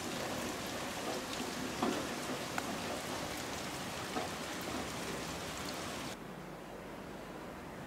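Steady rain hiss with scattered sharp drop ticks. About six seconds in it cuts abruptly to a quieter, duller hiss.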